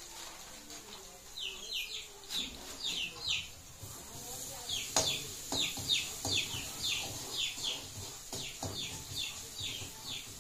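A small bird chirping over and over, short falling chirps about three a second. A few light knocks come in from about five seconds in.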